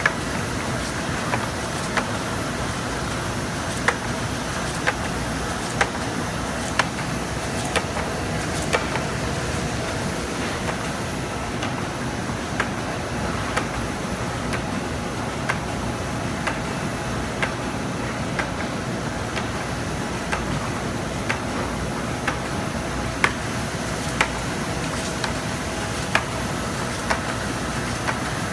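Printing press with a Kompac spot and flood coater running: a steady mechanical hum with a sharp click roughly once a second.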